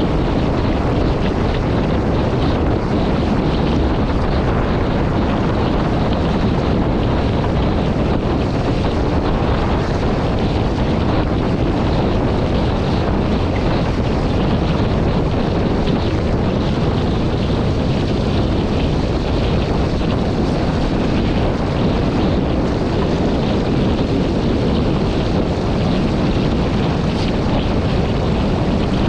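Steady wind noise buffeting the microphone, with water rushing along the hull of an RS800 sailing dinghy under way.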